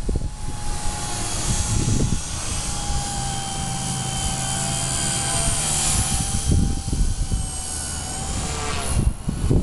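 Micro electric RC helicopter (V120D05) in flight, its motor and rotor whine sliding up and down in pitch as the throttle and collective change, with wind buffeting the microphone underneath.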